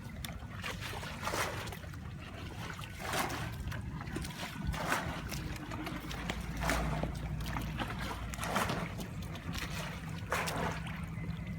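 Shallow water splashing and sloshing in short bursts, about one every two seconds.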